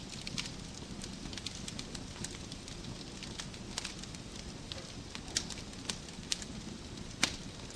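Wood fire burning in a fireplace, irregular sharp crackles and pops over a steady low hiss, with one louder pop near the end.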